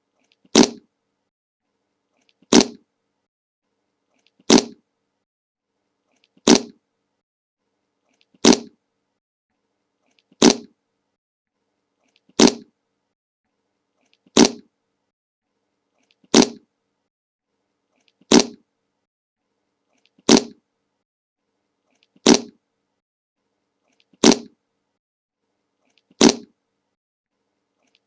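A short recorded fart sound effect, played again and again, identical each time, about every two seconds with silence between, about fourteen times.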